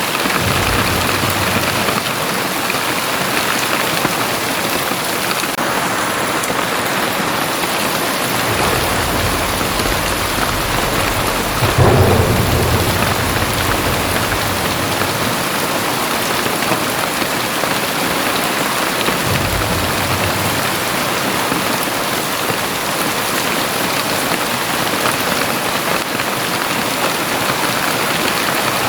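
Very heavy rain pouring steadily, with low rumbles of thunder coming and going. The loudest thunderclap comes about twelve seconds in.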